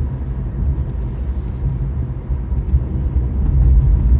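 Steady low road rumble of a car being driven, heard from inside the cabin, growing slightly louder near the end.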